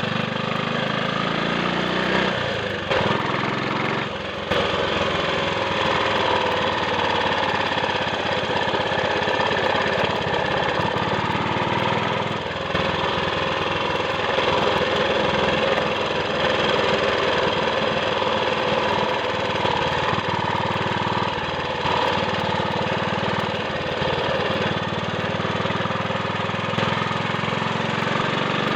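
Triumph Sports Cub's single-cylinder four-stroke engine running steadily as the motorcycle is ridden, with short dips in level about three and four seconds in and again near twelve seconds.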